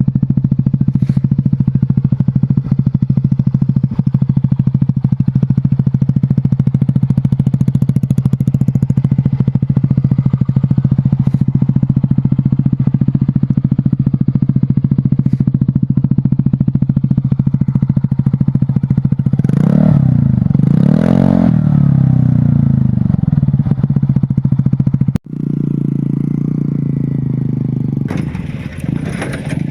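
Scooter engine with an aftermarket exhaust idling steadily, revved up and down twice about twenty seconds in. After a sudden break it runs on with a different tone, with more revs near the end.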